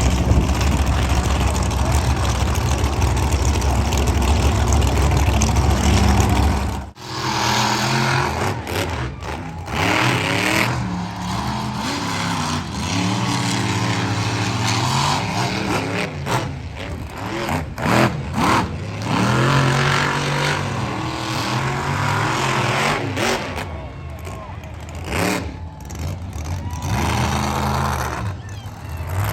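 Monster truck engines: a loud, steady low rumble for about seven seconds, then a sudden cut to engines revving up and down, their pitch rising and falling.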